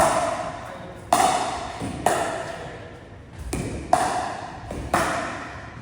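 Pickleball paddles striking a plastic pickleball back and forth in a drill rally, five or six sharp pops about a second apart, each ringing briefly.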